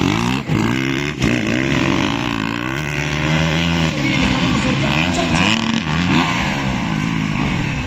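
Several motocross motorcycle engines revving up and down as they race, their pitches overlapping and rising and falling continuously.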